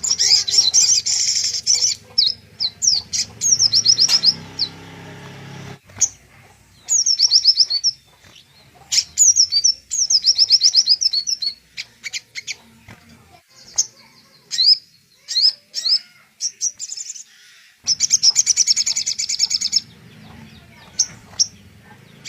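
A songbird sings bouts of rapid, high trills and chattering phrases with short pauses between them. This is a recorded tutor song (masteran) of the kind played to captive white-rumped shamas so they copy it.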